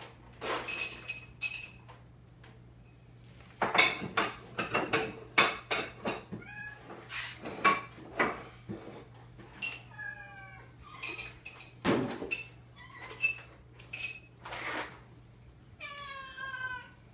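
A cat meowing, with a long meow about ten seconds in and another near the end, over repeated sharp clinks and clatters of dishes.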